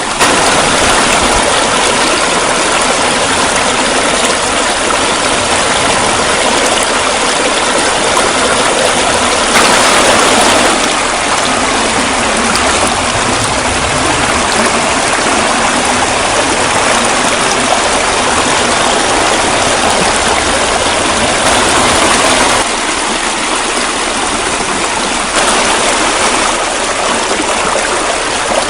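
Steady rushing noise of running water, like a stream or small waterfall, loud and even, with slight swells now and then. No distinct canary chirps stand out.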